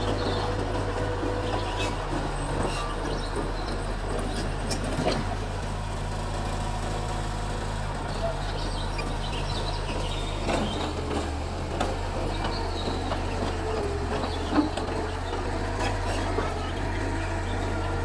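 Mitsubishi bulldozer's diesel engine running steadily at working speed, with a few metallic clanks over it.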